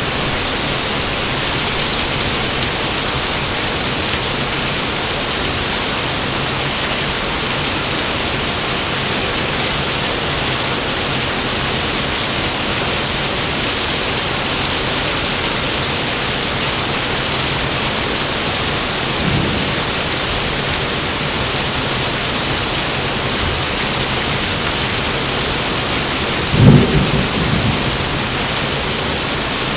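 Heavy rain falling steadily, with a faint rumble of thunder about two-thirds of the way through and a louder peal of thunder rumbling for about two seconds near the end.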